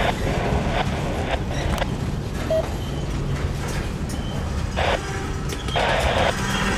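Freight train cars rolling past with a steady low rumble and creaking. Two short harsh bursts come near the end, about five and six seconds in.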